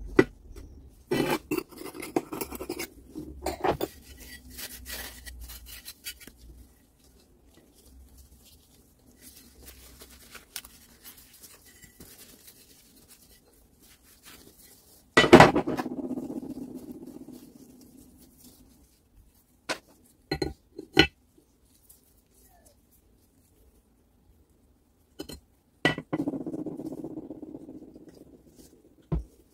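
Metal parts and tools being handled and set down on a workbench: scattered clicks and scrapes, with two loud metallic knocks about halfway through and near the end, each ringing away over two to three seconds.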